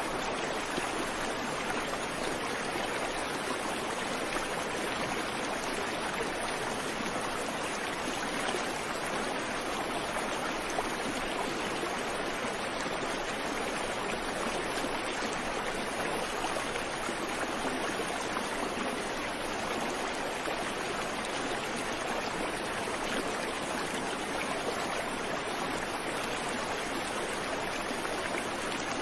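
Creek water running over rocks in a steady rush, with no birds.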